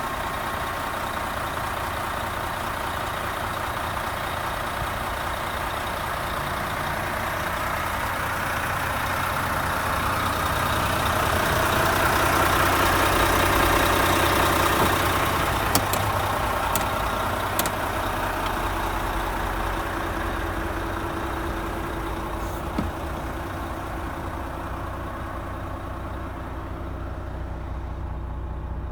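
Renault T460's 11-litre six-cylinder diesel engine running steadily, swelling louder about a third of the way in and then easing back. A few sharp clicks follow just after the loudest part.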